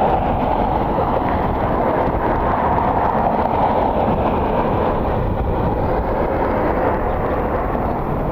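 Steady roar of jet aircraft engines, easing slightly toward the end, with wind rumbling on the microphone.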